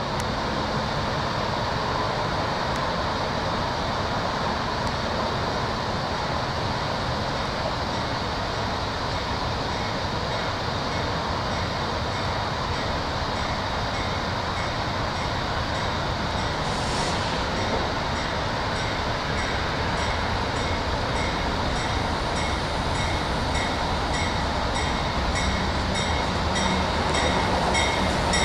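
CSX diesel freight train rolling steadily on curved track, the rumble of its wheels and engines growing slightly louder as it draws near. From about halfway through, wheels click over rail joints at roughly two clicks a second.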